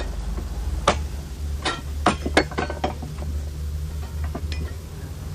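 A run of sharp, irregular knocks and clinks, hard objects striking, clustered in the first three seconds and thinning out later, over a steady low hum.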